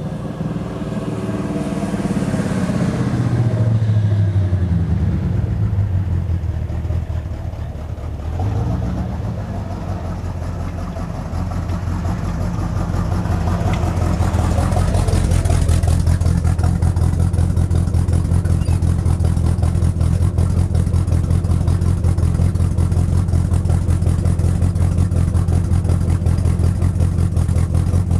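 1974 Dodge D100's 361 big-block V8 running through an X-pipe and dual Pypes M80 mufflers. The revs fall over the first few seconds, climb again between about eight and fourteen seconds in, then hold steady with an even exhaust pulse.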